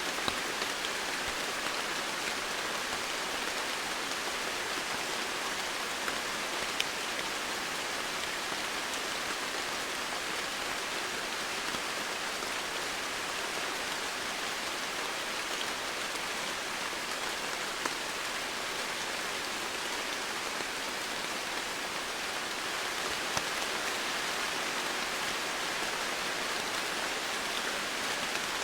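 Steady heavy rain falling, an even hiss with a few sharper drop ticks now and then.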